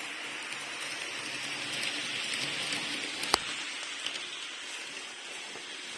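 Model railway train rolling along the track: a steady whirring hiss that swells a little in the middle, with one sharp click about three seconds in.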